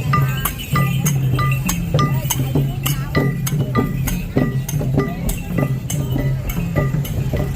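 Traditional Khmer festival music: small metal percussion clinking and ringing in a quick, even rhythm over a steady low tone.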